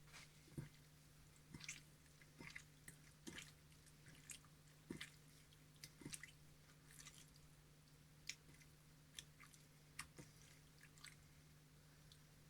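Faint, irregular small clicks and soft wet squishing taps, about one or two a second, over a low steady hum.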